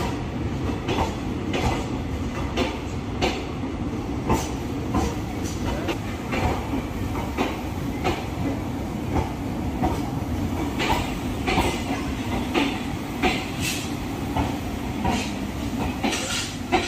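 Indian Railways train running, heard from inside the coach: a steady rumble of wheels on track, with clickety-clack clicks at the rail joints about once or twice a second.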